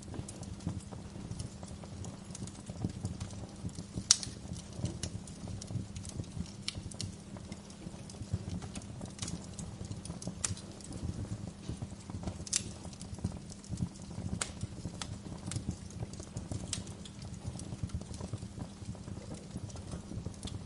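Wood fire crackling, with irregular sharp pops, the loudest about four seconds in, over a steady low rumble of burning.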